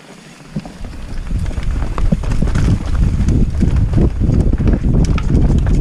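Mountain bike setting off down a rough downhill trail: tyres running over rocks and roots with a dense clatter of knocks and rattles over a low rumble, building up over the first second or two as it gains speed.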